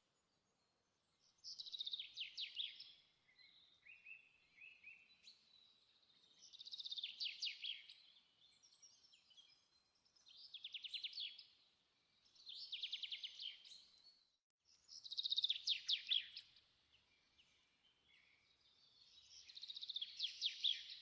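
A bird singing: about six faint, high trilled phrases, each a second or two long, with pauses of one to four seconds between them.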